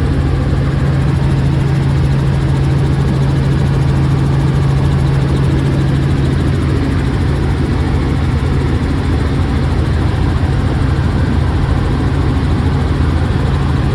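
Helicopter noise heard from inside the cabin in flight: a loud, steady engine and rotor drone with a strong low hum.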